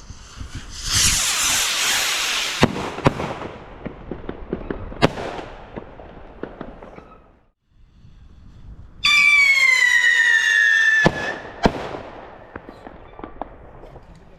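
Consumer fireworks going off: a hissing, crackling launch with several sharp bangs. About nine seconds in, a loud whistle with several overtones falls slightly in pitch for about two seconds and ends in a bang.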